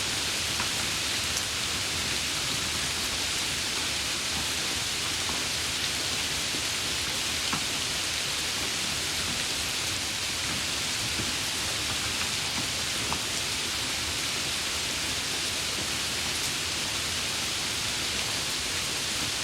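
Steady rain falling, an even hiss with a few faint, scattered drop ticks.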